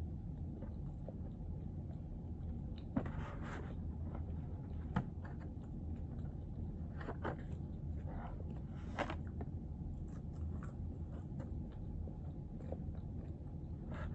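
A person chewing and biting food, with scattered short crunchy bites over a steady low room hum.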